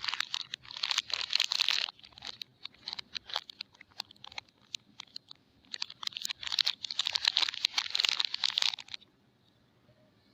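Soap packaging being unwrapped: two long stretches of crinkling and tearing, with scattered small crackles in between, stopping about nine seconds in.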